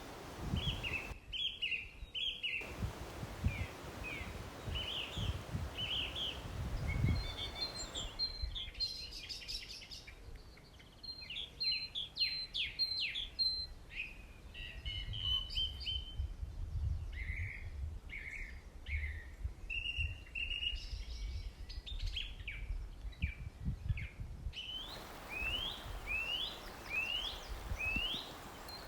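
Wild songbirds chirping and singing in quick, short sweeping notes, over a low irregular rumble. The background changes abruptly several times as different recordings are cut together.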